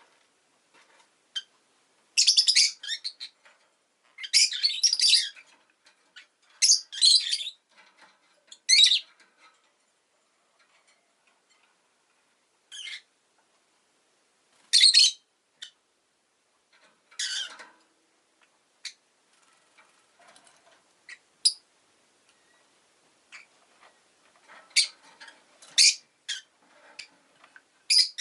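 Rosy-faced lovebird chirping in short, sharp, high bursts that come in irregular bunches with quiet gaps between them.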